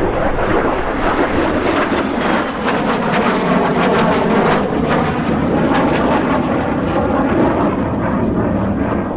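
Jet noise from a Lim-5 (Polish-built MiG-17F) and its Klimov VK-1F afterburning turbojet during a flying display, a loud, fairly steady roar peaking around the middle.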